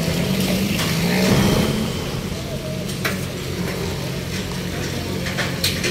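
Street and construction-site ambience: a steady low engine hum under constant traffic noise, with a few sharp clicks.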